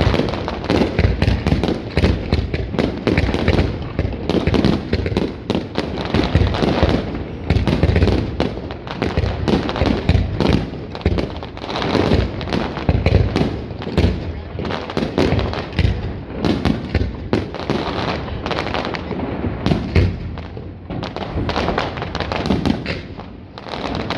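Fireworks display going off continuously: rapid overlapping bangs and crackling shell bursts, easing off briefly near the end, with crowd voices underneath.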